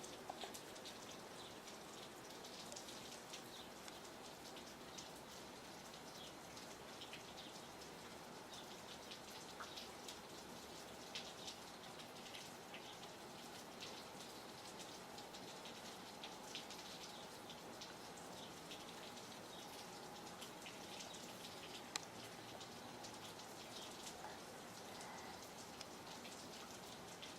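Steady light rain falling, with many small irregular drop ticks and patters; late on, one sharper single tap stands out.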